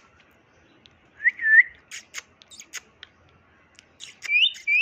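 Short pure whistles near the pitch of a bird call: a pair about a second and a half in and a rising pair near the end, with a quick run of sharp chirps or clicks in between.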